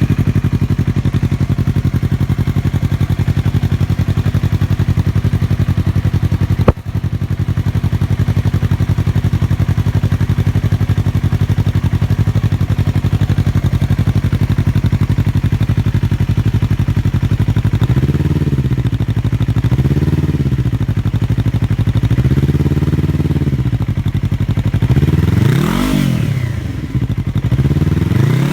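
2016 Yamaha R3's parallel-twin engine through a Coffman's Shorty slip-on exhaust with its removable baffle in, idling steadily just after start-up, with one sharp click about a quarter of the way in. From about two-thirds through the throttle is blipped about six times, the revs rising and falling, the last blips highest.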